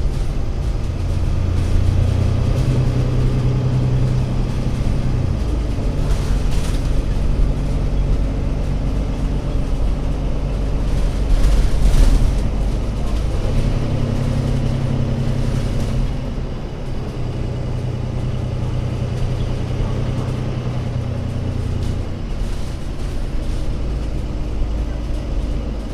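Alexander Dennis Enviro500 MMC Euro 6 double-decker bus engine running on the move, its low note rising and dropping several times as the bus pulls away, changes gear and eases off. About twelve seconds in there is a louder burst of noise.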